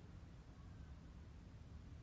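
Near silence: a faint, steady low rumble of background noise with no distinct event.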